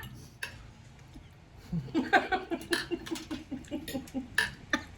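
A woman laughing in a long run of quick, breathy pulses, starting about two seconds in.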